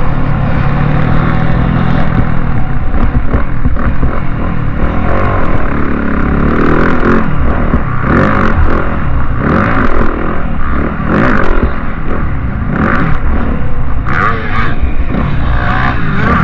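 Motocross motorcycle engines running and revving, their pitch rising and falling, with short clattering noises throughout.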